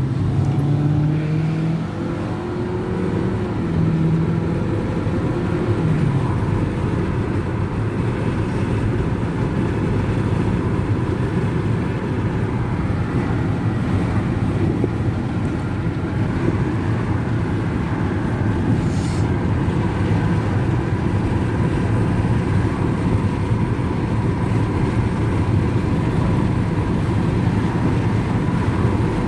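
A car on the move: a steady low engine and road noise, with the engine note rising over the first several seconds as it picks up speed.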